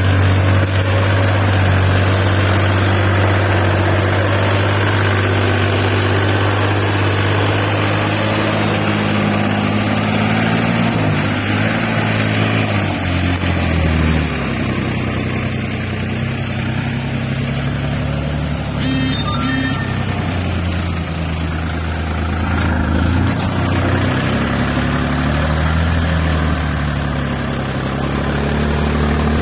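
Mini farm tractor's 14 hp engine running steadily, its speed changing around the middle and again later on.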